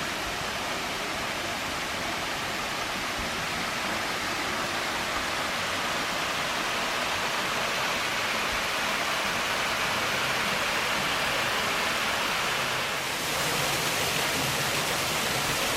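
Steady, even rush of flowing water, growing slightly louder, with a short dip near the end.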